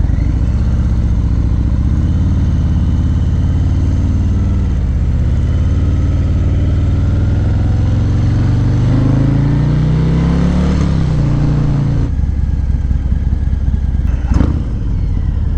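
1000cc motorcycle engine accelerating hard, its pitch climbing steadily for several seconds, then dropping sharply about twelve seconds in and running on lower and steadier. A brief sharp knock near the end.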